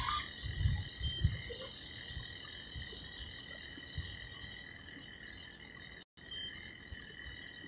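A steady chorus of frogs calling, an unbroken high-pitched drone of overlapping calls. There are a few low thumps in the first second and a half, and the sound cuts out briefly a little after six seconds.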